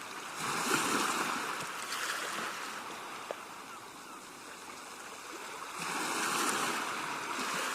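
A rushing, surf-like noise that swells about half a second in, eases off, and swells again near the end.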